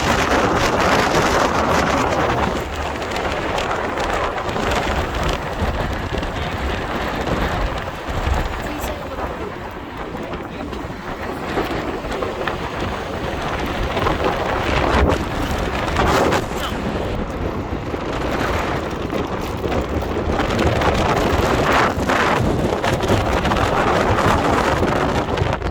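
Wind rushing and buffeting against the microphone, the gusts rising and falling in strength.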